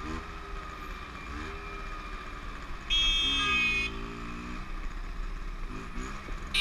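Motorcycle engine running and changing pitch as it is ridden, with a vehicle horn sounding one loud, steady blast of about a second about three seconds in and a short toot at the very end.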